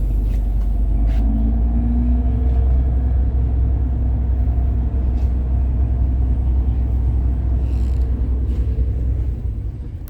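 Deep, steady rumble of a tour boat's engines while the boat gets under way, easing slightly near the end.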